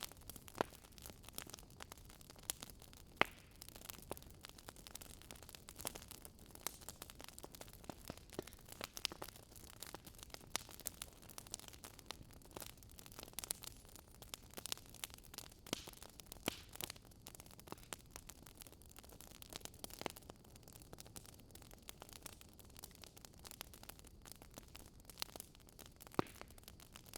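Wood fire crackling softly, with irregular small pops and snaps over a faint steady hiss.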